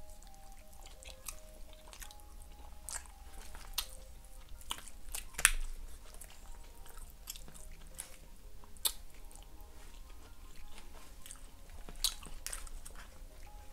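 Close-miked chewing of a mouthful of Chipotle burrito-bowl food, with a few sharp clicks as a metal fork knocks against the aluminium foil tray; the loudest click comes about five seconds in. Quiet background music plays underneath.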